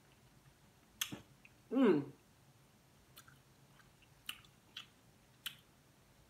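Close-up chewing and mouth sounds from someone eating seafood: scattered sharp smacks and clicks, and one short falling hum about two seconds in.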